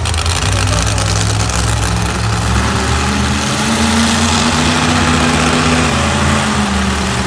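A vehicle engine running steadily, its note shifting slightly about three and a half seconds in.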